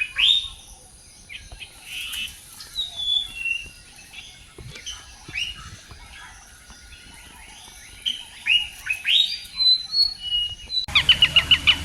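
Several birds chirping and calling, short sweeping chirps one after another, with a quick run of about seven chirps near the end.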